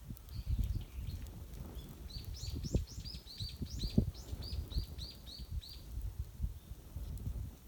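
A small bird singing a quick run of short, arched chirps, about five a second, for a few seconds in the middle, over irregular low knocks and rumble.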